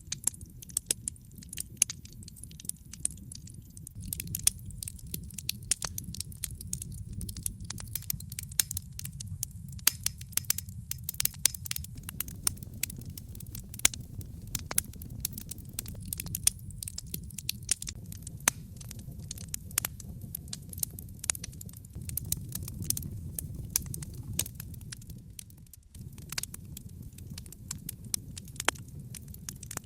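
Wood logs burning in a fireplace, crackling with frequent, irregular sharp pops and snaps over a low, steady rumble of the flames.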